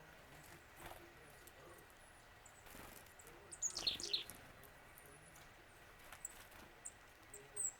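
Wild bird calling: a quick cluster of high, sharply falling notes about three and a half seconds in, then a few short, very high chips near the end.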